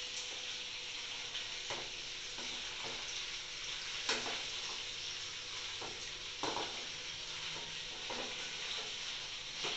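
Chicken pieces deep-frying in hot oil in an aluminium kadai, with a steady sizzle. Every second or so the long perforated metal spoon scrapes and knocks against the pan as the pieces are stirred while they fry toward golden brown.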